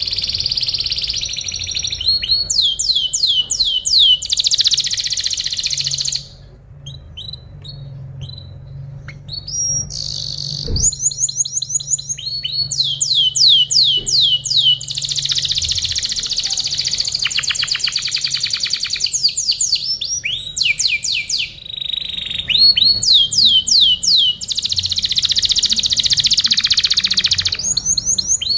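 Canary singing a long, varied song of rapid trills. Series of quick falling whistled notes alternate with dense rolling phrases, broken by short pauses about six, ten and twenty-one seconds in.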